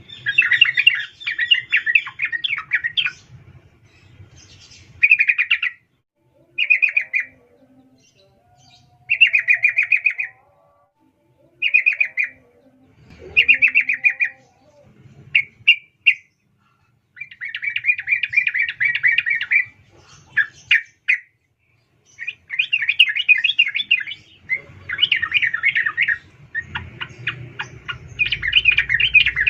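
Female yellow-vented bulbul (trucukan) calling in bursts of rapid chattering notes, each a second or two long with short pauses between, running almost continuously near the end. It is the female's call to males, used as a lure to set male trucukan singing.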